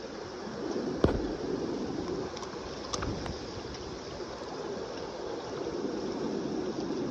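Kenai River current rushing steadily, with a sharp knock about a second in and a fainter click about three seconds in.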